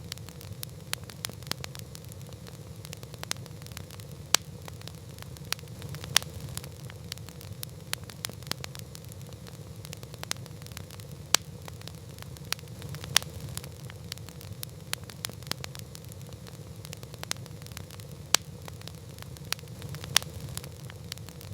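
Campfire crackling: wood burning with a steady low rumble of flame and irregular sharp pops and snaps, a few of them markedly louder than the rest.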